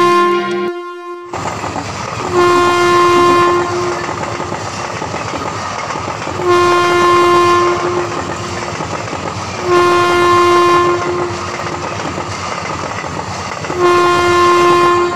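Passenger train running past close by, its wheels rumbling and clattering on the rails, while a train horn sounds in four blasts of about a second each, a few seconds apart. A short horn note and a brief gap come first, and the rumble starts about a second in.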